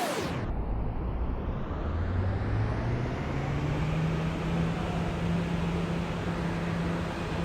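New York subway car running, heard from inside: a steady rumble of wheels on track with a motor whine that rises in pitch about two to three seconds in and then holds, as the train picks up speed.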